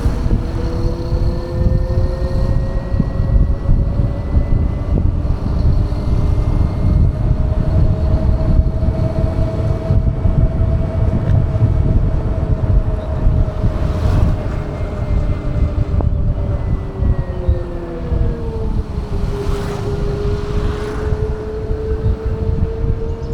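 Ola S1 Pro Gen 2 electric scooter's motor whining while riding, under heavy wind buffeting on the microphone. The whine slowly rises in pitch with speed, drops about three-quarters of the way through as the scooter slows, then rises again.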